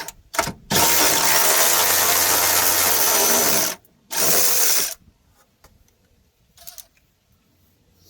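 Cordless electric ratchet whirring as it spins out 10mm bolts: two short blips, then a run of about three seconds, then another about a second long.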